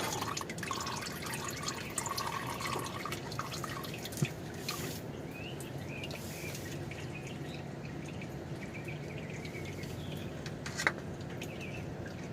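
Used engine oil dripping and trickling from under the engine after the drain plug and oil filter have been removed, with a couple of light knocks.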